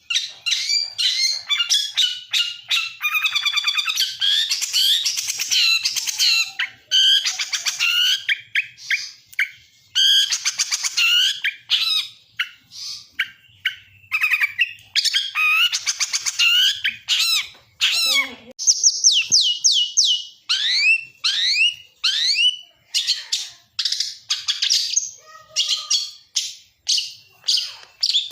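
Caged songbird singing a fast, varied 'isian' song of rapid chirps, trills and harsh notes. A run of quick rising whistled sweeps comes about twenty seconds in.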